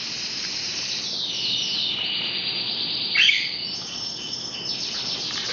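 Canaries singing, a continuous high trilling and warbling song, with one louder short bird call about three seconds in.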